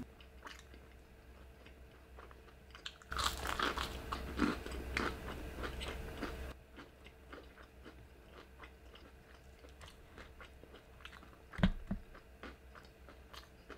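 Close-up eating of crunchy fried chicken: a burst of loud crunching bites from about three to six and a half seconds in, then quieter chewing with faint crackles. A single thump comes near the end.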